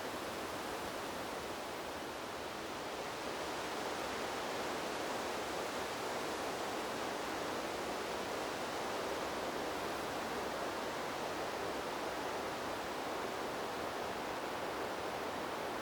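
Steady, even rushing of wind blowing through trees, swelling slightly a few seconds in.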